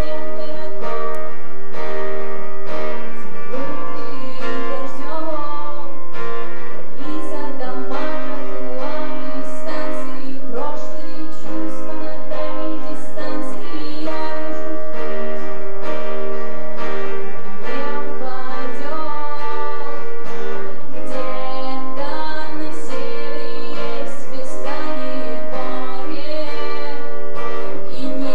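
A song with acoustic guitar accompaniment and a singing voice.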